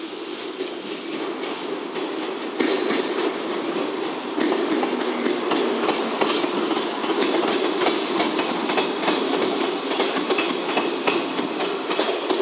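JNR 105 series two-car electric train running past, its wheels clicking and clattering over the rail joints and pointwork. It gets louder about two and a half seconds in as the cars draw level.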